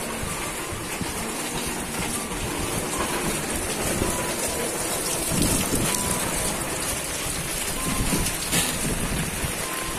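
Steady rain falling, a continuous hiss of drops hitting the ground and surrounding surfaces, with a few brief low rumbles.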